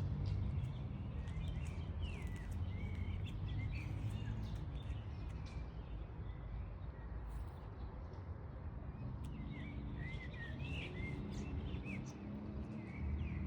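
Small birds chirping in short, repeated high calls over a steady low background rumble.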